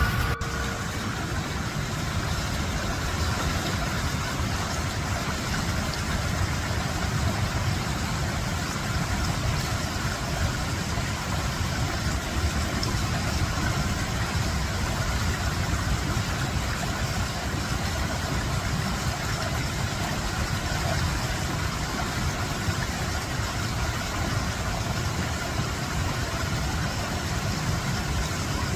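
A vehicle running steadily: an even, low rumble of engine and road noise with no change in pitch.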